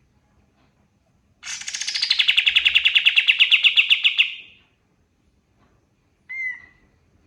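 Kapas tembak songbird singing one fast, even trill of about ten notes a second that slides down in pitch at the start and then holds steady for about three seconds. A single short call follows near the end.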